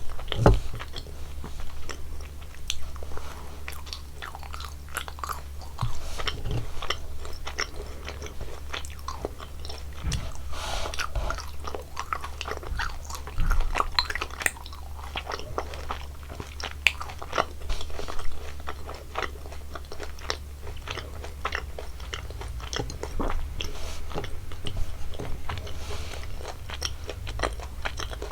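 A person chewing and biting jelly sweets close to the microphone: a continuous run of short, sharp, wet clicks, with a few louder bites.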